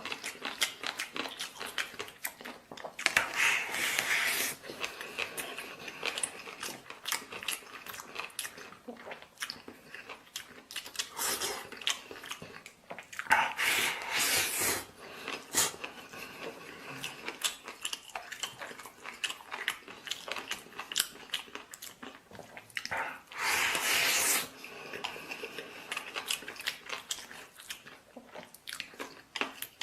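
A person chewing and biting food close to the microphone: rice topped with crunchy pickled mustard tuber, with many small wet clicks. Three louder noisy bursts of a second or so come about ten seconds apart.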